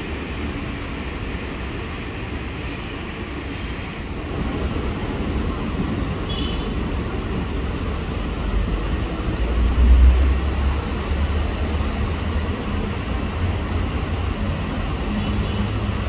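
JR 205 series KRL electric commuter train moving along the station tracks: a steady low rumble that grows louder about four seconds in and is strongest around ten seconds in, with a faint brief high squeal near six seconds.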